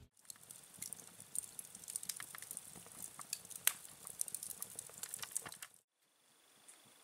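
Sausage roasting over a small wood campfire: faint sizzling with irregular crackling pops, cutting off suddenly about six seconds in.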